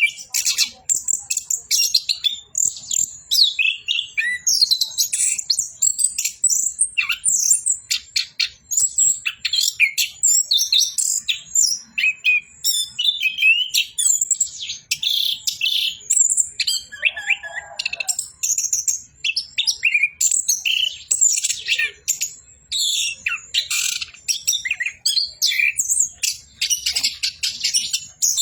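Chestnut-capped thrush (anis kembang) singing a long, unbroken run of rapid, varied high chirps and trills, with one brief lower phrase about two-thirds of the way through.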